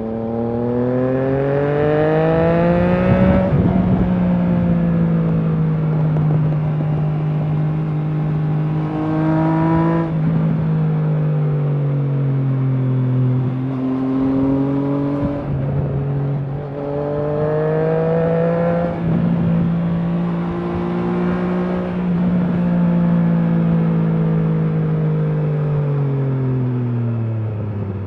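Triumph Trident 660's inline three-cylinder engine through a Leo Vince aftermarket exhaust, on the move. It pulls with a rising note over the first few seconds and then holds a fairly steady note with smaller rises and dips. Near the end it slows with a falling note.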